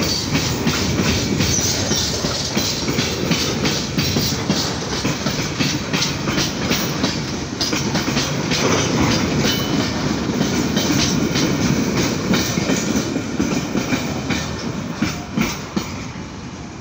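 Freight wagons of a coal train rolling past close by, their wheels clattering steadily over the rail joints. Near the end the tail of the train, the brake van, goes by and the clatter fades to a few separate clacks.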